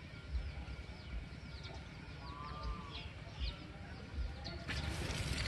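Birds chirping over and over in quick falling notes, with a chicken's brief call about two seconds in. An even rushing noise sets in near the end.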